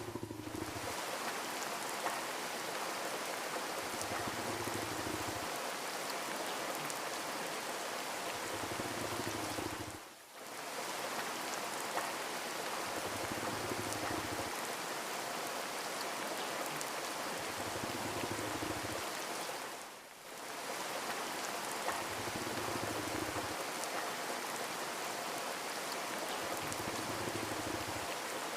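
Steady rain falling on a surface, a dense even patter with no thunder. The sound dips briefly and comes back about every ten seconds, like the seam of a looped recording.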